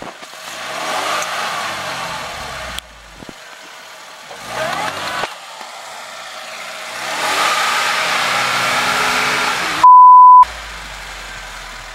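Lada Niva engine revving up and falling back in three spells while the car is stuck in deep mud, trying to drive out. About ten seconds in, a loud steady censor beep lasts half a second.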